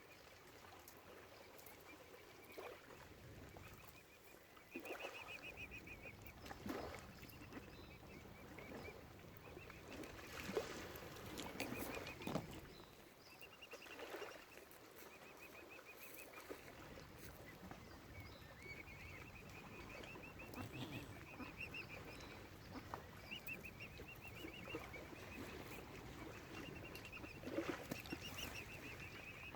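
Faint bird calls: short, rapid trilled series of high notes, repeated every few seconds, over a low rumble of wind or handling noise.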